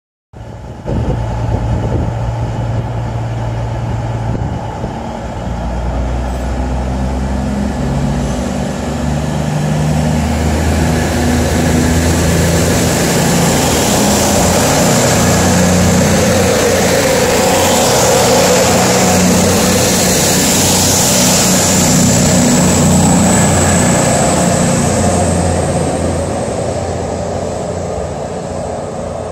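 CrossCountry Voyager diesel multiple unit pulling out and running past, its underfloor diesel engines' note changing in steps under a rushing train noise. The noise swells as the cars go by and then eases a little as the train moves away.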